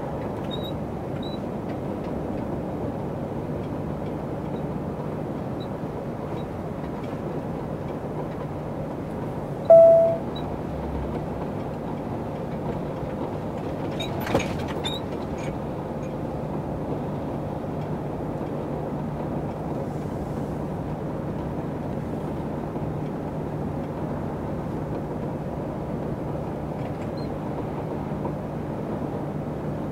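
Lorry driving, heard from inside the cab: steady engine hum and road noise. A single short beep comes about ten seconds in, and a light click a few seconds later.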